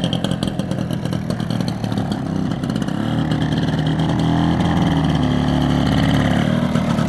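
BSA Bantam D1 125cc two-stroke single-cylinder motorcycle engine running; the revs rise about three seconds in and drop back to tickover near the end. It starts and runs but, by the owner's account, needs a little bit of a tune.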